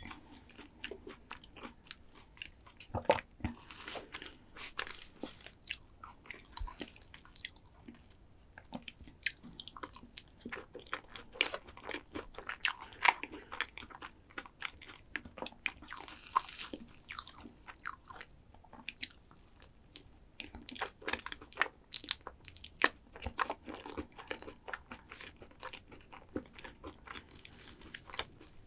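Close-miked eating: a person biting and chewing crunchy food, with many irregular sharp crunches.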